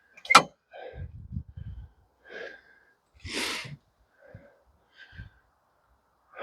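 Scattered short sounds of a person working by hand: a sharp click just after the start, a few low knocks, and a breathy rush of air around the middle.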